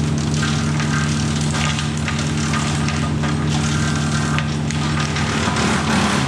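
Tractor engine running steadily at working speed, driving a PTO wood chipper, with crackling and rattling as wood goes through; the engine note wavers near the end as it takes load.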